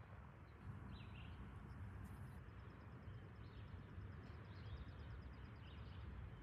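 Faint low rumble of a freight train's cars rolling by at a distance, with birds chirping now and then. A fast, high ticking trill runs from about two seconds in to near the end.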